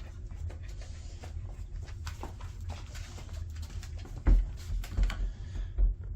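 Kindling crackling as it catches in a wood stove, scattered sharp little crackles and pops throughout, with a few dull thumps in the second half.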